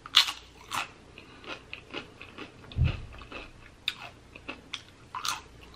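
Close-up crunching of tortilla chips being bitten and chewed: a string of sharp, crisp crunches at an uneven pace, with one soft low thump about three seconds in.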